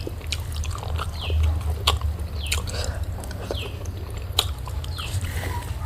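Close-up chewing and mouth sounds of someone eating, with sharp clicks and smacks. Short high falling chirps repeat about once a second behind them.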